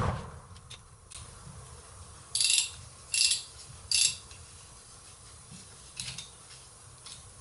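Ratchet wrench clicking in three short bursts about two and a half, three and four seconds in, then a fainter burst near six seconds. It is working fasteners on a Toyota T50 gearbox's extension housing.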